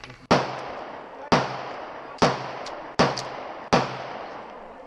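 Five gunshots fired one after another, roughly a second apart, each cracking sharply and then ringing out briefly. Two fainter sharp clicks fall between the third and fifth shots.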